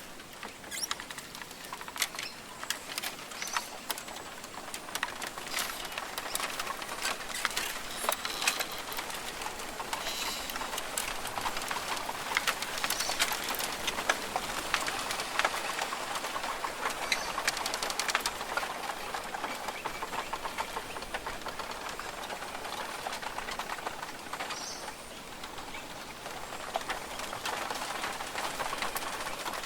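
Rainforest ambience: birds calling over a steady hiss, with many short clicks and ticks scattered through it.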